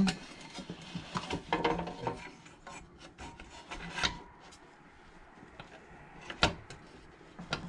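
Scattered clicks, scrapes and rustles of metal parts being handled as the ignition coil is set back onto a Predator 212 engine, with one sharp click about six and a half seconds in.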